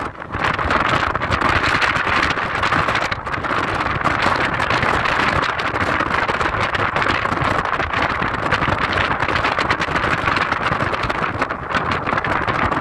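Car driving along a forest road: steady road and tyre noise, dotted with many small clicks and knocks.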